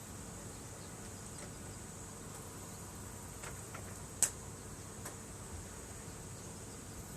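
Steady high-pitched insect chirring, with a few sharp crackles and pops from a wood bonfire; the loudest pop comes about four seconds in.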